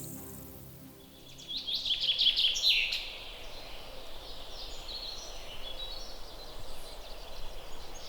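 Songbird singing: a loud run of rapid high chirps about a second and a half in, then softer, repeated trilling notes. The end of background music fades out at the start.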